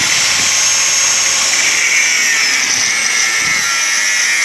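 A power tool running steadily with a high-pitched whine.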